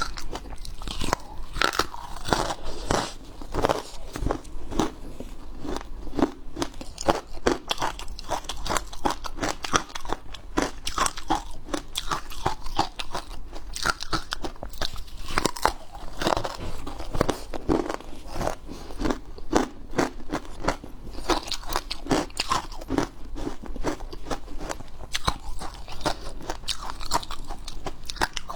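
Hard ice being bitten and chewed, a continuous run of sharp, crackly crunches with several strokes a second.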